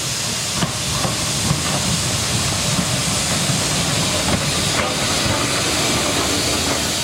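Steam engine venting steam: a loud, steady hiss over a low rumble, with a couple of faint clicks.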